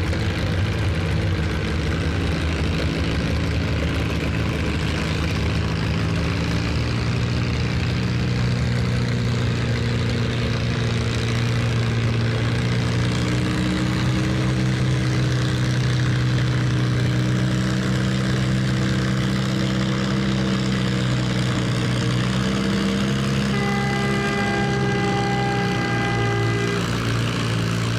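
Farm stock tractor's diesel engine running hard and steadily for a long stretch, its engine note shifting in pitch a few times. Near the end a high tone with several overtones sounds for about three seconds over the engine.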